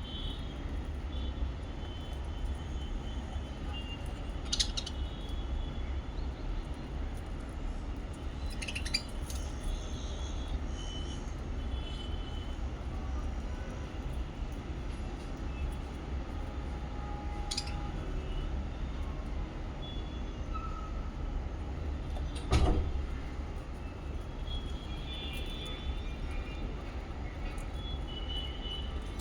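Lovebirds chirping faintly and sporadically over a steady low rumble. A few sharp clicks sound through it, and one louder knock comes a little past two-thirds of the way in.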